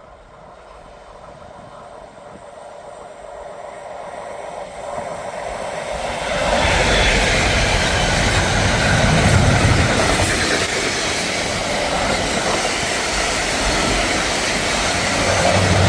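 Electric train approaching and passing close by: its noise grows steadily louder for about six seconds, then stays loud and steady as the wheels roll past on the rails.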